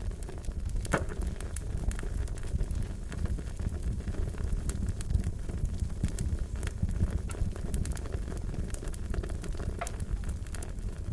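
Wood fire crackling: a steady low rumble with frequent irregular sharp pops and snaps, one louder pop about a second in.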